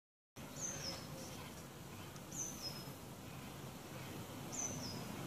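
A small bird calling three times, about two seconds apart: each a short, high call that steps down in pitch, over steady outdoor background noise that cuts in abruptly after a moment of dead silence.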